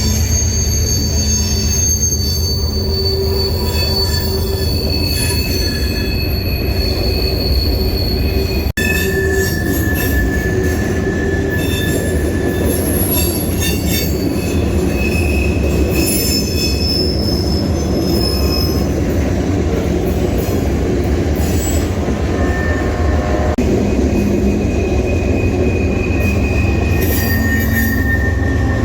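Freight train rolling by at close range, a steady low rumble with steel wheels squealing against the rails in several high tones that come and go.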